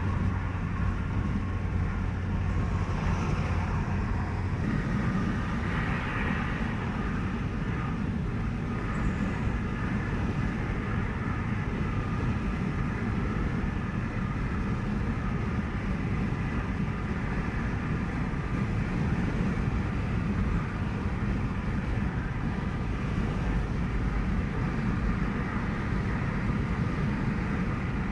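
Steady low rumble of a car driving along a toll highway: tyre and engine noise. A low hum drops out about four seconds in.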